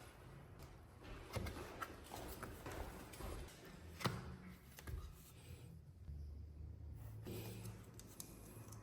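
Faint, scattered knocks and clicks of walnut parquet boards being handled and laid, with one sharper click about four seconds in, over a low hum.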